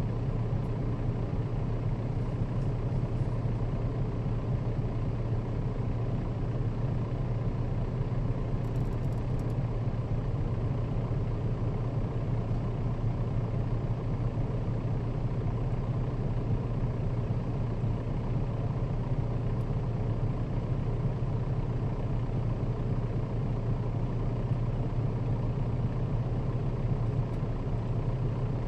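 Nissan Diesel KL-RA552RBN route bus running steadily, a constant low engine and road drone that holds at one pitch with no gear changes or stops.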